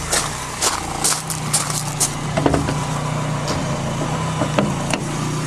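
VW Scirocco GTX's rebuilt DX four-cylinder engine idling steadily, with a quick run of clicks and knocks over it in the first couple of seconds and a few more later.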